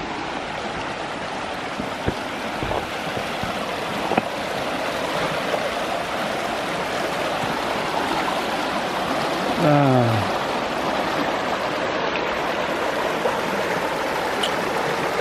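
Flowing creek water, a steady rushing that grows slightly louder. About ten seconds in, a brief falling vocal sound like a sigh.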